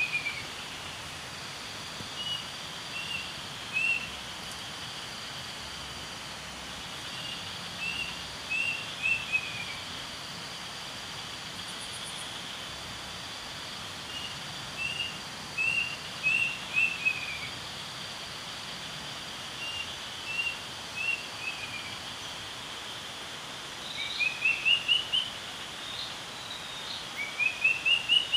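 Forest bird calling: short whistled notes in groups of three to five, some groups stepping down in pitch, with two quick runs of notes rising in pitch near the end, over steady forest background noise.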